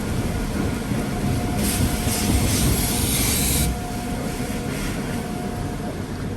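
Automated tunnel car wash heard from inside the car: a steady low rumble of the wash machinery, with a burst of spraying water hitting the car for about two seconds starting around a second and a half in.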